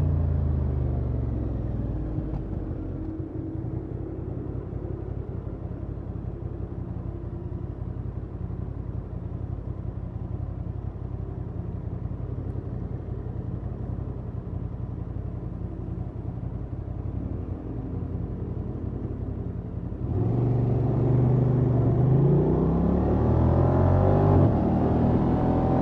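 Honda XL750 Transalp's 755 cc parallel-twin engine through its stock exhaust: it drops in pitch as the throttle closes, runs low and steady for a long stretch, then about twenty seconds in the throttle opens and it pulls hard with rising pitch, dipping briefly once near the end for a gear change.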